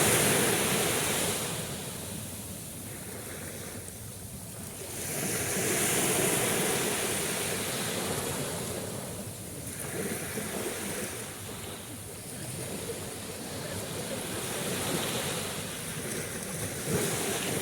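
Sea waves washing ashore, an even rush of surf that swells and fades every four to six seconds.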